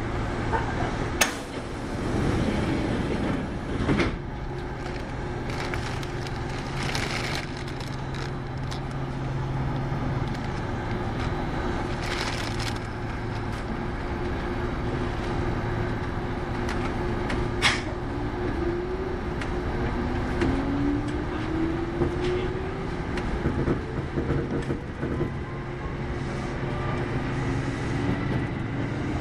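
Kintetsu 8810 series electric train running, heard from inside the car: a steady rumble of wheels and motors, with a few sharp knocks from the track. A motor whine rises in pitch in the second half as the train picks up speed.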